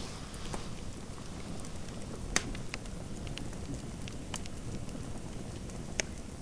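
Fireplace fire crackling: a steady low rumble of burning with scattered sharp pops, two loud ones, one about two and a half seconds in and one near the end.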